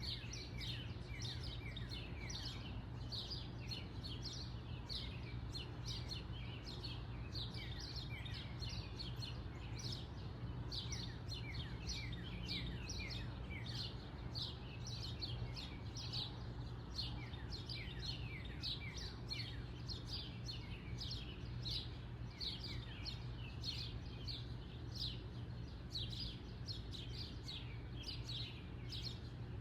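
Backyard birds chirping continuously: many short, quick, falling chirps overlapping one another, over a steady low background hum.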